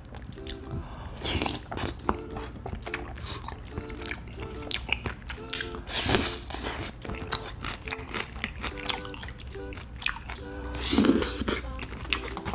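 Close-miked chewing and wet mouth sounds of a person eating tteokbokki with fish cakes and quail eggs, with many small clicks and three louder, longer wet mouthfuls.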